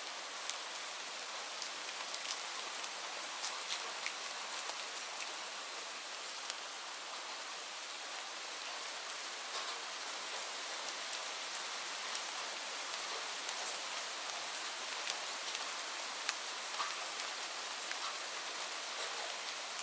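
Steady rain falling on leaves, a constant hiss with many separate drops ticking through it.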